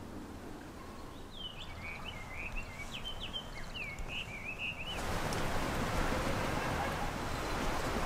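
A small bird singing a quick run of chirps and warbling notes. About five seconds in, the sound switches abruptly to a louder, steady rushing noise.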